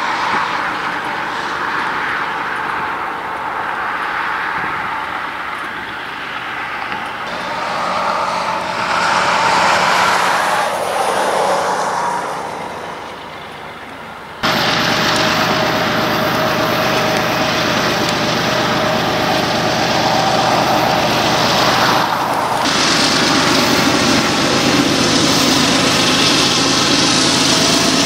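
Freight trains of autorack cars hauled by diesel locomotives, the engines running and the wheels going over the rails. About halfway through there is a sudden change to a louder, steady train sound as a second train's locomotives pass close by.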